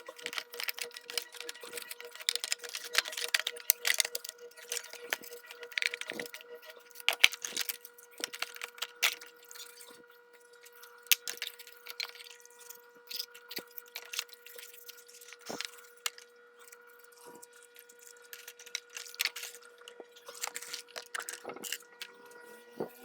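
Irregular metallic clicks and clinks of tools and small metal parts being handled, with a steady faint whine underneath.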